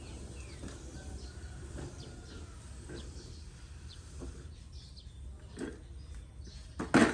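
Faint, scattered bird chirps over a steady low background rumble, with a few soft knocks and one sharp, much louder thump about seven seconds in.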